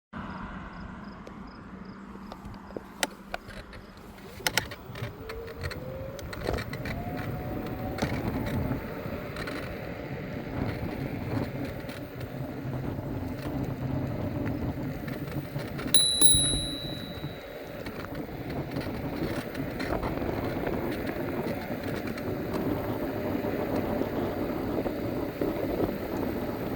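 Electric scooter riding off: a few clicks, then a whine that rises in pitch as it picks up speed, then a steady rolling hum and noise. A bell rings once, clearly, about sixteen seconds in.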